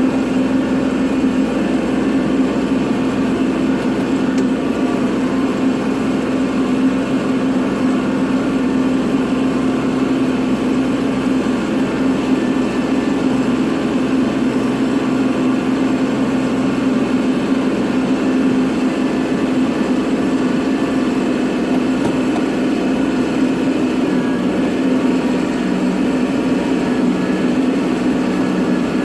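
Kubota tractor's diesel engine running at a steady speed, with a constant hum.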